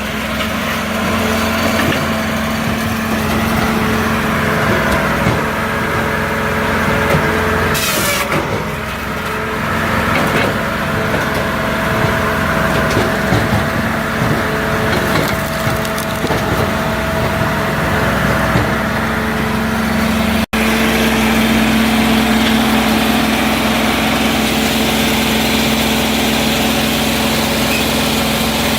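Multitek 1620SS firewood processor working: its 44 hp diesel engine runs steadily while logs are cut and split. A sharp knock comes about eight seconds in, and the sound changes abruptly about two-thirds of the way through.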